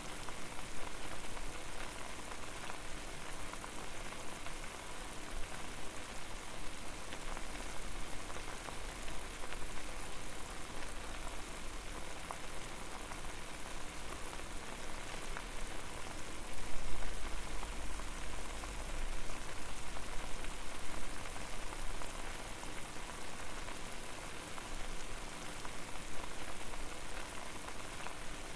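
Water boiling hard in a pot over a fire: a steady, dense bubbling with faint scattered pops and a low rumble underneath that grows louder a little past halfway.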